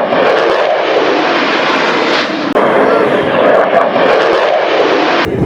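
Loud jet engine noise from a jet aircraft passing, a dense rushing sound with no clear pitch. It changes abruptly about two and a half seconds in and cuts off suddenly near the end.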